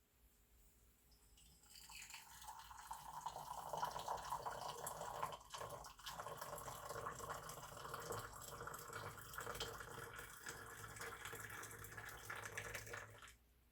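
Liquid pouring steadily into a cup, building up over the first two seconds and stopping abruptly near the end.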